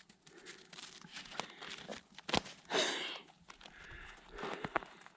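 Footsteps crunching through snow at an irregular pace, with a few sharp clicks and a brief louder rustle about three seconds in.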